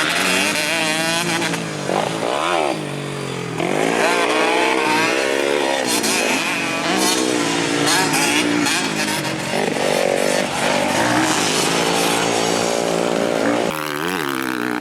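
Two-stroke dirt bikes revving hard around a motocross track, more than one engine at once, the pitch repeatedly climbing and dropping with throttle and gear changes.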